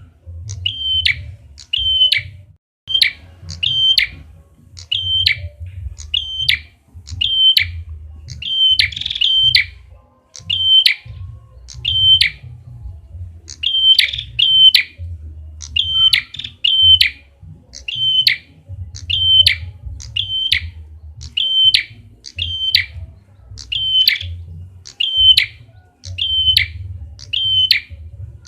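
Red-headed prenjak, a prinia, calling: short, sharp chirps, mostly in quick pairs, repeated steadily over and over, as in a lure call. A low rumble runs underneath.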